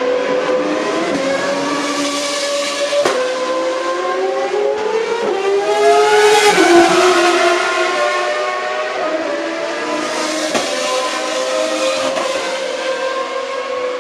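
Race car engines running at speed, their pitch rising and falling with several overlapping notes. A car comes past loudest about halfway through, its note dropping as it goes by.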